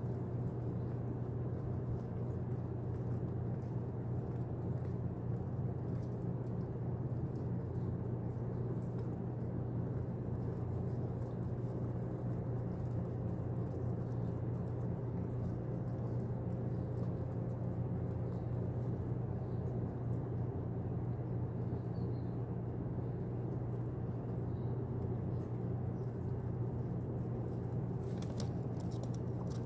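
A steady low rumble that does not change in level.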